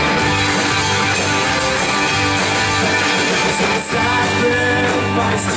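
Live worship band playing an instrumental passage, with electric guitar, bass and drums.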